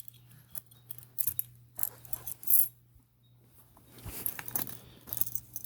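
Metal keys on a ring jingling and clinking as they are handled, in short irregular spells with a brief lull about three seconds in, over a faint steady hum.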